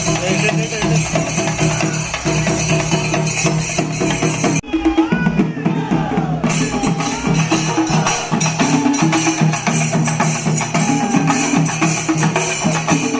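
Festival percussion ensemble of drums and hand cymbals playing a fast, dense rhythm. About a third of the way in the cymbals and drums cut out for a couple of seconds, leaving fainter sliding tones, then the full ensemble comes back.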